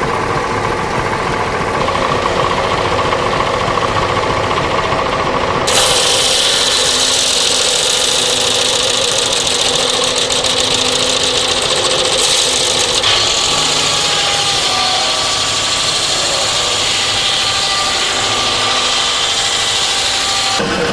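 Engine-driven saw cutting wood. The machine runs steadily at first; about six seconds in a loud, high-pitched sawing noise starts as the blade bites into the timber. The sawing changes about halfway through and stops just before the end.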